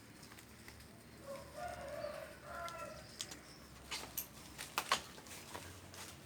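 Faint bird calls, likely chickens clucking, between about one and three seconds in. Then a few sharp clicks and knocks near the middle. No power tool is running.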